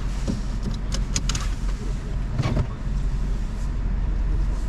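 Car driving, with a steady low engine and road rumble, a few light clicks about a second in and a knock near the middle.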